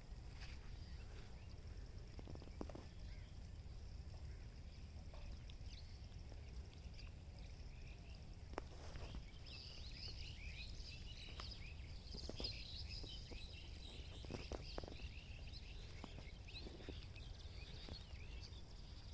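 Birds chirping outdoors: many short, quick calls crowd together from about halfway through and thin out near the end, over a steady low rumble of wind or ambient noise, with a few faint knocks.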